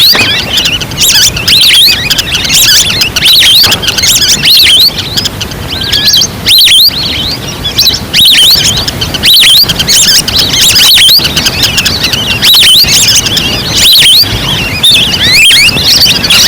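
Wild duck calls used as a hunting lure: a flock's short, high, hooked whistles, overlapping and repeating several times a second, over a low rushing noise.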